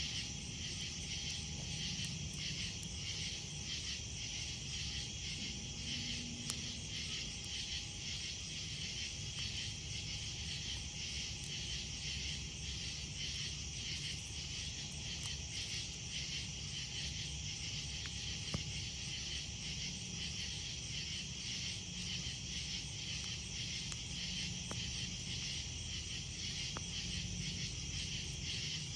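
A steady chorus of night insects chirping in a rhythmic pulse, with a few sharp crackles from a wood campfire.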